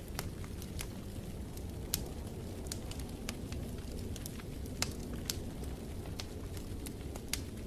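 Wood fire crackling in a fireplace: irregular sharp pops, a few of them louder, over a steady low rumble.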